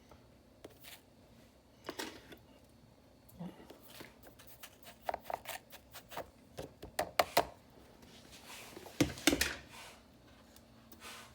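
Scattered clicks and knocks of a plastic drip coffee maker being handled, its lid and parts opened and set in place, with the loudest clatter about nine seconds in.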